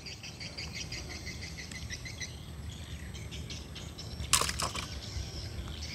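Small birds chirping in quick, evenly repeated high notes, with one sharp click about four and a half seconds in.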